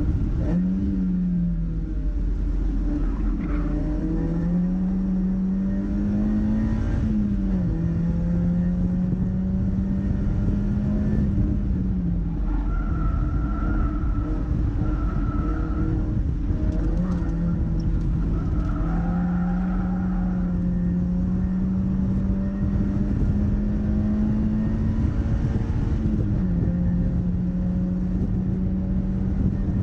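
Mazda MX-5's four-cylinder engine running hard on track, with road and wind noise under it. The engine note climbs steadily and then falls sharply several times, about every five seconds, as it moves through gears and lifts off for corners.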